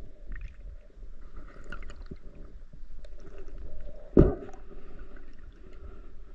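Underwater noise picked up by a camera in its housing: a steady muffled rush of water with faint gurgling and scattered small clicks, and one sharp knock about four seconds in.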